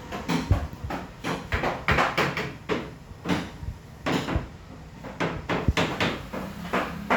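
Wooden wardrobe doors being opened and shut: a run of irregular knocks and clunks, roughly one or two a second.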